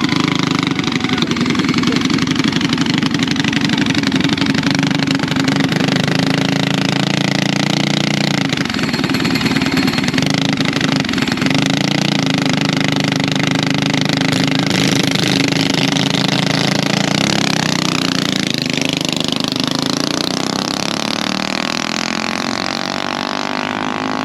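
Motorbike engines running steadily at idle. In the last several seconds an engine sound sweeps up and down in pitch.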